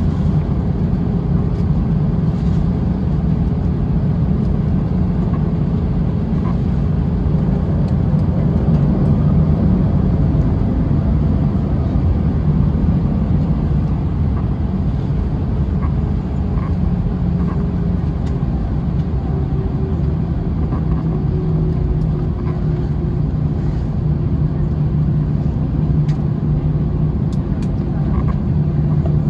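Steady low drone of an Airbus A321's engines at idle heard inside the cabin during taxi, with a low hum that drifts slightly in pitch.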